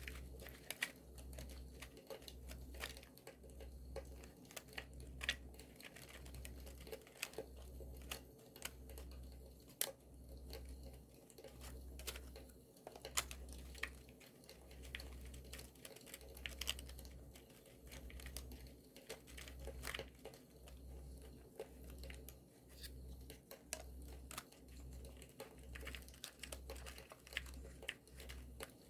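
Paper being crinkled, rustled and torn by hand, over the crackle of a campfire. Sharp crackling clicks come every second or so throughout.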